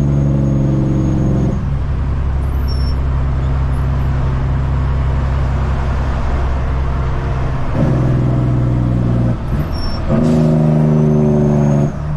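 Caterpillar C-15 diesel engine in a Kenworth truck running under way, a steady low drone. Its fuller note drops away about a second and a half in, comes back about eight seconds in, and cuts out briefly twice near the end, as the engine goes on and off load.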